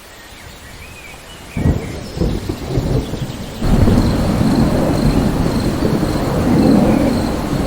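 Rainstorm with thunder. A soft rain hiss gives way, about a second and a half in, to a sudden crackling thunder rumble. From about three and a half seconds in, a loud, steady low rumble of thunder and rain follows.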